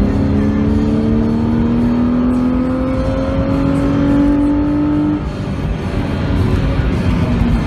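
BMW Z4 3.0i's 3.0-litre straight-six pulling hard under acceleration, heard from inside the cabin over road and tyre rumble. Its pitch climbs steadily for about five seconds, then the revs drop suddenly.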